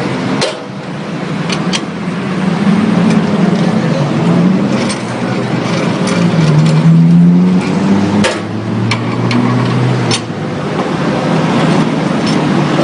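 Scattered sharp metallic clicks and knocks as screws and panels of a coconut milk press are undone and handled. They sit over a loud continuous mechanical drone whose low hum drifts down in pitch.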